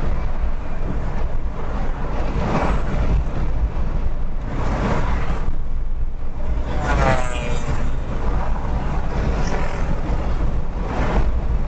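Car driving on a highway: a steady low rumble of road and wind noise, with other vehicles rushing past four times. The pass about seven seconds in carries a whine that slides in pitch.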